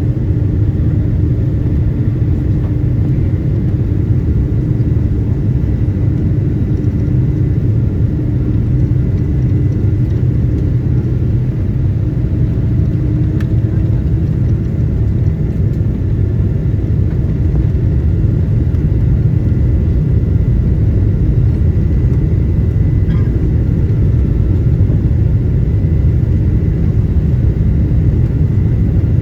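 Steady low rumble of a Boeing 777-200's engines and airflow heard inside the passenger cabin, with a faint steady whine above it.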